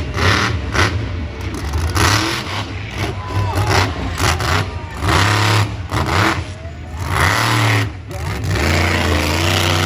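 Monster truck engine revving in repeated loud bursts, with rougher running between them.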